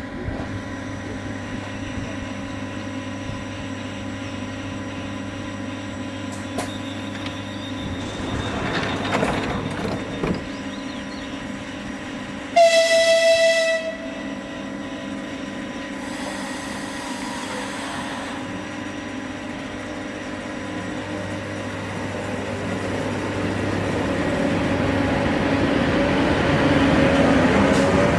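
Train sounds: a steady electric hum, cut about halfway through by a single horn blast lasting about a second. The hum grows louder over the last few seconds with a rising whine.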